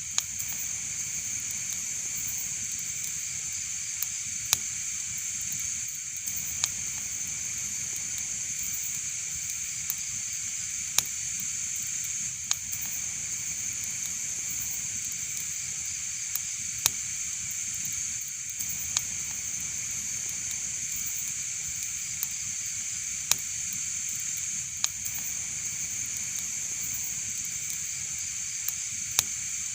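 Wood fire in a fireplace burning with a steady high hiss, broken by sharp crackling pops every second or two.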